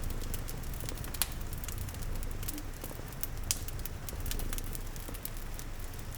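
A log fire crackling with frequent sharp pops, two of them louder about a second in and halfway through, over a steady rain patter and a low, continuous cat purr.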